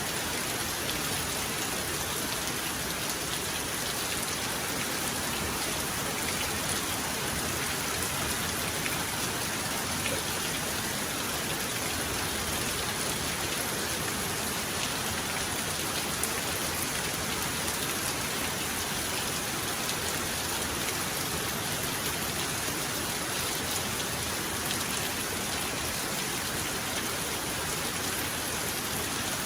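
Heavy rain falling steadily: a dense, even hiss of rain on surfaces with fine scattered drop ticks.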